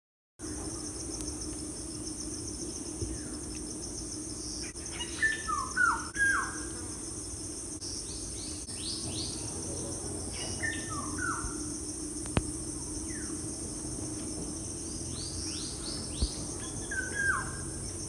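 A bird singing a short phrase of quick falling notes three times, about five to six seconds apart, over a steady high insect trill.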